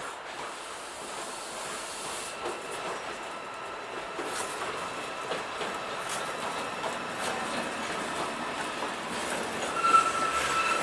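Intermodal freight train headed by a Class 88 locomotive running past, with wheels clicking over rail joints and a rolling noise that slowly grows louder. A brief high wheel squeal comes near the end.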